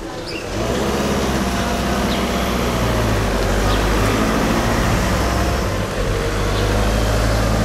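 Car engine running close by as a sedan drives slowly past, a loud, steady low hum that comes in about half a second in.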